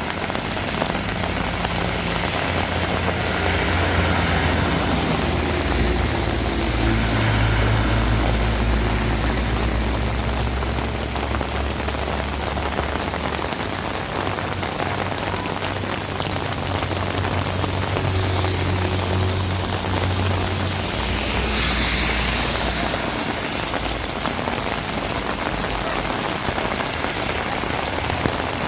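Heavy rain falling steadily on surfaces around. Under it, a low engine drone runs for most of the first twenty seconds and then fades, with a brief swelling hiss a little after that.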